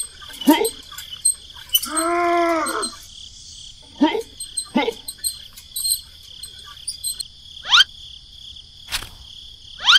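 Steady high chirring of crickets, with short rising squeaky chirps over it about six times. About two seconds in, one pitched call rises and falls over about a second.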